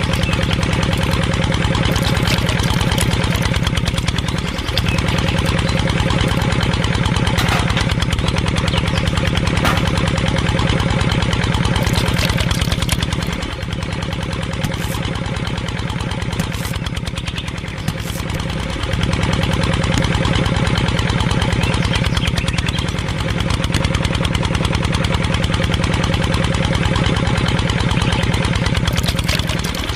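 Small engine running steadily with a fast, even pulsing beat, dipping briefly a few times and running a little quieter for a few seconds in the middle.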